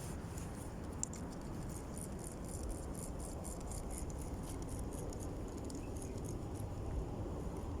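Strong wind buffeting the microphone in a steady low rumble, with a run of light, irregular high clicks over it.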